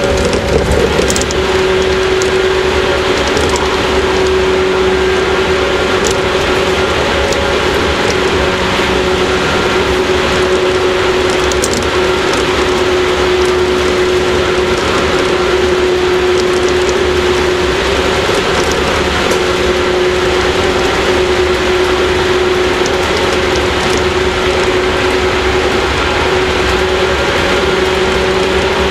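Running sound of a JR 115-series electric train's motor car from inside the car: a steady whine from the MT54 traction motors and gears, holding one pitch, over wheel and rail rumble, with a few light clicks from the track.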